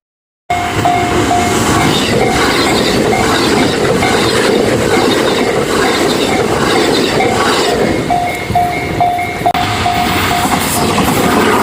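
Train passing a Japanese level crossing at close range, a loud steady rumble of wheels on the rails, over which the crossing's warning bell rings in a repeating clang, about three strokes a second. It starts abruptly about half a second in.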